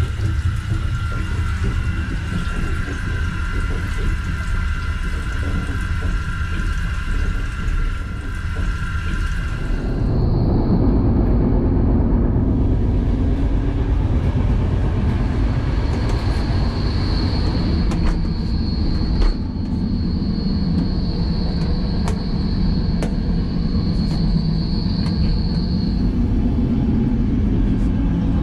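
Running noise inside a moving passenger train coach: a steady low rumble. A steady whine rides over it until about ten seconds in, when it turns to a heavier rumble with a faint high tone and a few light clicks.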